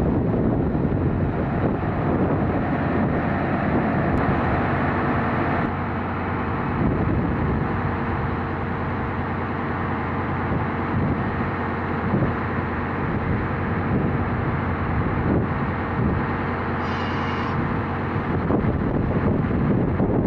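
Train running steadily, a low engine hum with rumbling noise, and wind buffeting the microphone. The engine hum fades out near the end.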